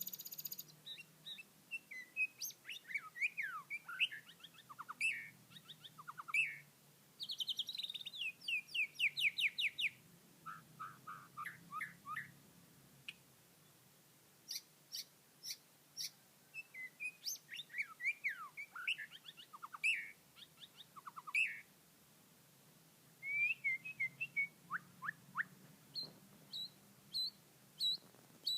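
Young birds chirping in quick, varied bursts of short calls, some notes sliding up or down in pitch and some in rapid trains, with brief lulls between bursts.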